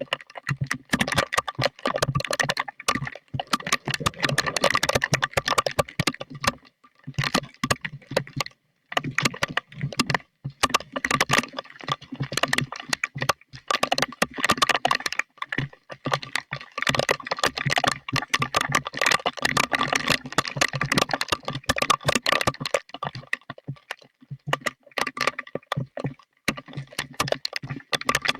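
Thunderstorm rain and wind picked up as dense, irregular crackling and clicking that cuts out briefly several times.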